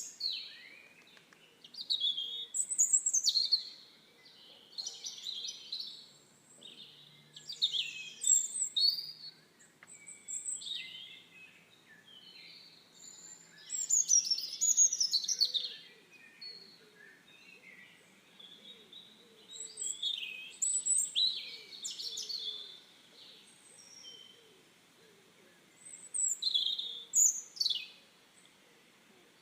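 Songbird singing in short phrases of rapid chirps and quick downward whistles, a new phrase every two to three seconds with brief pauses between.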